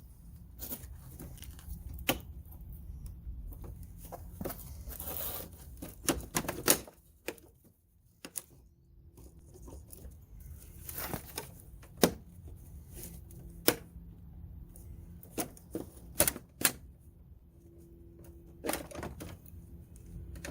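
Irregular sharp clicks, taps and a brief scrape of plastic trim fasteners and hand tools being worked loose from a car's front bumper trim.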